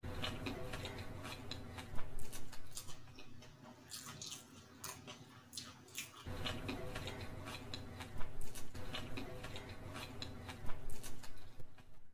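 Close-miked eating sounds: wet chewing, lip smacks and mouth clicks as saucy Manchurian and noodles are eaten, with a plastic fork scraping and scooping through the gravy. The sounds come as many short clicks, with a few louder smacks about two seconds in, around eight seconds and near the end.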